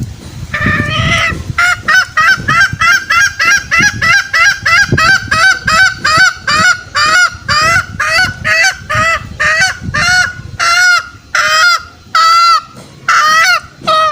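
Green junglefowl calling: a rapid run of short, clipped calls at about three a second, which slow to longer calls about a second apart near the end. This is a lure call used to draw wild junglefowl out.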